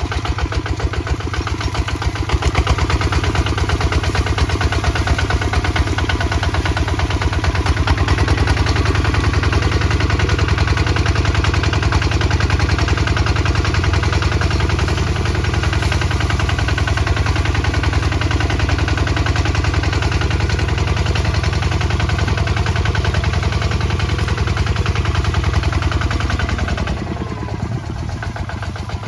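Kubota ZT155 DI diesel engine running steadily while plowing, with rapid, even firing pulses. Near the end the engine note falls and gets a little quieter.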